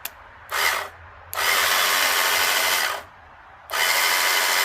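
Electric winch motor of a small auto crane, fed straight from a battery through jumper cables, running in three bursts as the leads are touched on: a brief one, then two lasting about one and a half to two seconds each. Each burst starts and stops abruptly, and the winch is paying its cable out.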